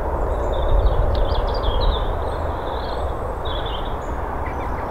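A bird calling in short, high chirping phrases over a steady low rumble of outdoor noise.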